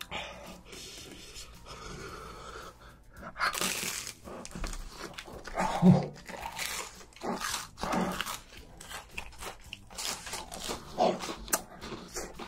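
Close-miked crunchy chewing of a Cheetos-crusted fried corn dog, a run of repeated crunches starting about three seconds in. A short vocal sound, the loudest moment, comes about six seconds in.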